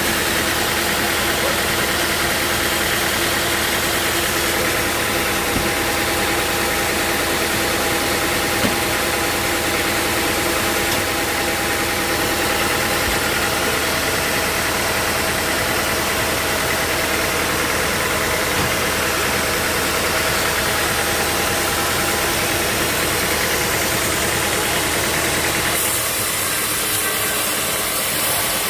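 Sawmill machinery running steadily: a constant mechanical drone with several held tones over a broad hiss. Near the end the sound turns hissier and loses some of its low rumble.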